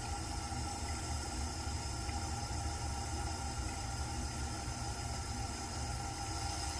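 Steady low hum with a constant hiss, unchanging throughout: background room noise with no distinct events.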